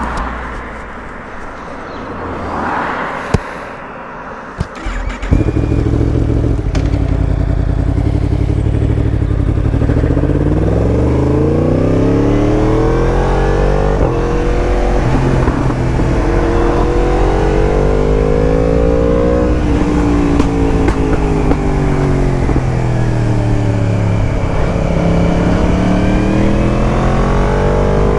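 Yamaha MT-10 crossplane inline-four with an Akrapovič exhaust starting up about five seconds in, running steadily, then rising and falling in pitch several times as the engine is revved and pulled through the revs.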